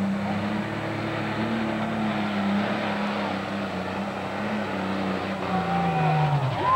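Heavy super stock diesel pulling tractor's engine running at high, steady revs, its pitch falling over the last second or so as the engine winds down.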